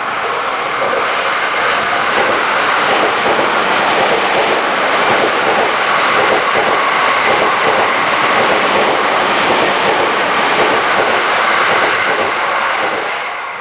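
Electric commuter train running past a station platform: a steady rush of wheel-on-rail and running noise that holds level throughout.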